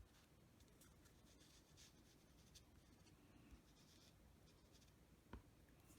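Near silence with faint handling of paper and crafting tools, light rubbing and small ticks, and one soft tap a little over five seconds in.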